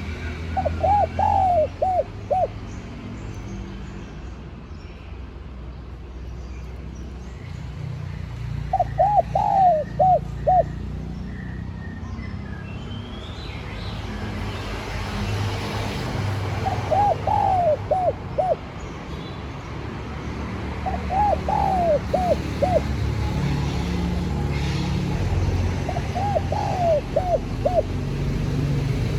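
Spotted dove cooing: five phrases of four or five coos each, a few seconds apart, over a steady low rumble.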